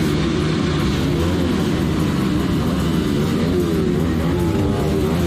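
Motorcycle engine running while riding, its pitch rising and falling with the revs over a steady low rumble.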